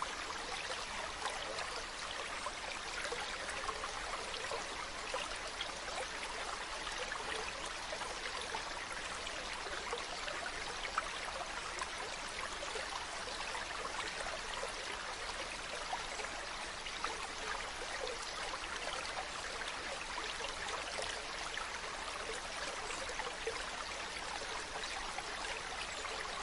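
Mountain stream running steadily over rocks, an even rush of water with fine splashing and trickling.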